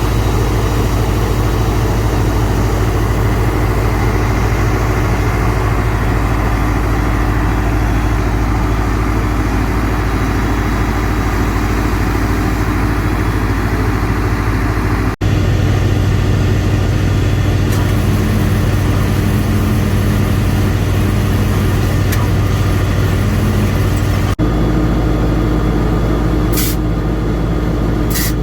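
Diesel engine running steadily at a constant speed, a loud low hum with a steady whine over it; the sound shifts abruptly twice, and two short clicks come near the end.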